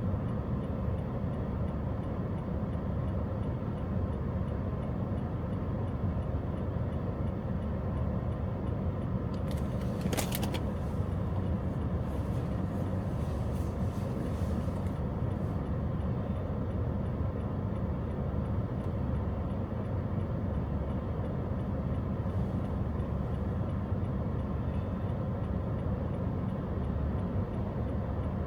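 Steady road and engine noise of a car being driven, heard from inside the cabin, with a short hiss about ten seconds in.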